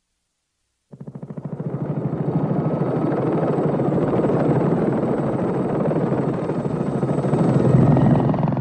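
Helicopter in flight, its rotor beating in a fast, steady chop. It cuts in suddenly about a second in, after near silence.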